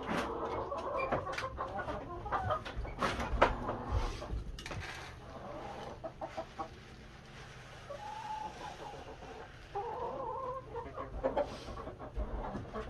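Chickens clucking, with several sharp knocks and clatters in the first five seconds.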